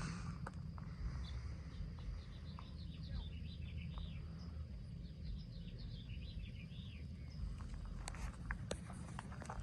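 A small songbird singing a run of quick, high, arching notes for several seconds, over a steady low rumble.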